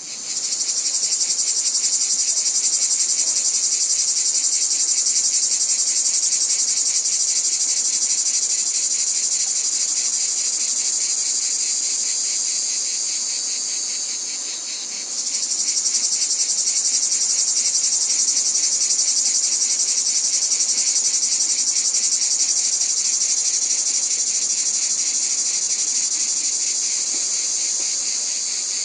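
Dense, steady chorus of insects trilling, high-pitched and rapidly pulsing, dipping briefly about halfway through before resuming.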